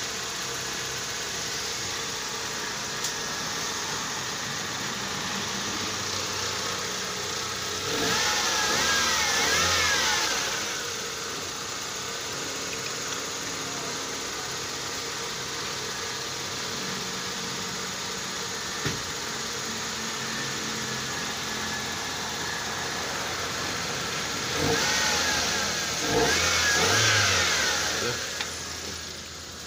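Toyota Corolla engine idling as it warms up after a hard cold start. It runs steadily, with two louder stretches, about eight seconds in and again near the end.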